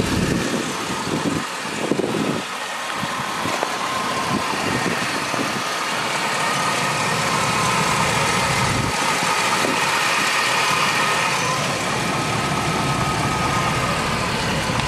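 2002 Cadillac Escalade's 6.0-litre Vortec HO V8 idling steadily, heard from under the open hood.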